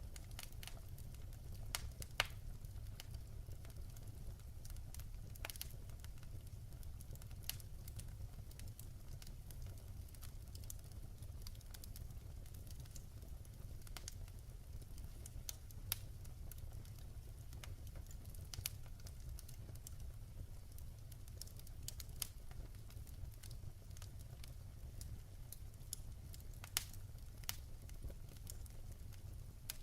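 Wood logs burning in a fireplace, crackling with irregular sharp pops scattered over a steady low rumble.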